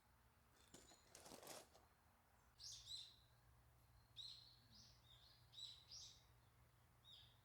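Faint birds chirping, a run of short high calls, after a brief rustle about a second in.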